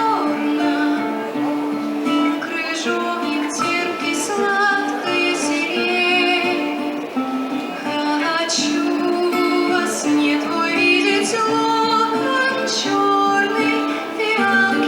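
A song sung by a woman's solo voice over plucked guitar accompaniment.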